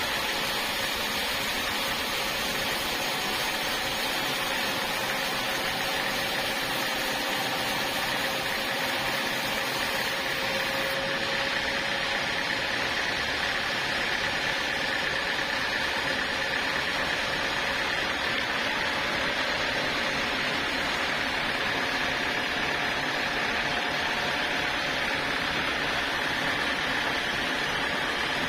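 Sawmill saw machinery running steadily, a continuous mechanical noise with a faint steady whine.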